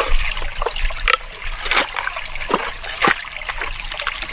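Shallow forest stream trickling, with a few short splashes in the water.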